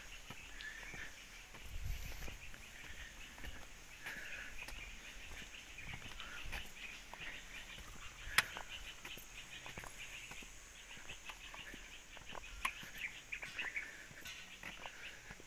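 Birds chirping and calling over outdoor background noise, with a sharp click a little past halfway.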